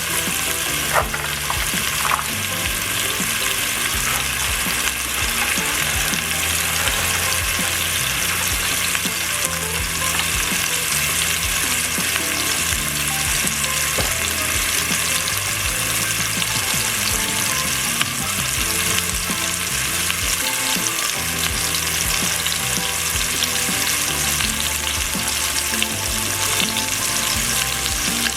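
Beef sausage frying in a little oil in a pan, giving a steady sizzle with a few sharp crackles.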